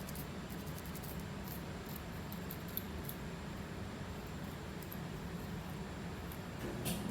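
Faint, scattered scratching of a flaky scalp being scratched and picked at, loosening dandruff flakes, over a steady low hum; a slightly louder scrape comes near the end.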